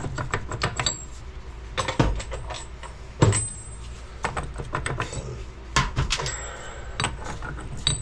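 Metal clinks and clatter of sockets and hand tools being handled and sorted through, with a few sharper knocks of metal on metal.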